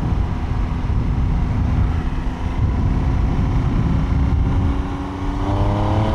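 Triumph Trident 800's 798cc three-cylinder engine running under way with wind noise on the rider's microphone. The engine note rises near the end as the revs climb.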